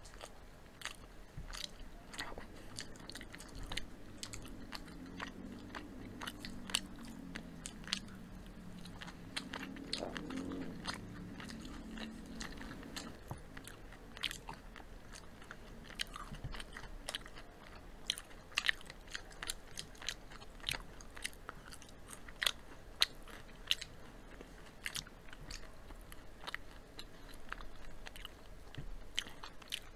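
Chewing and biting into crispy fried chicken, with many sharp, irregular crunches.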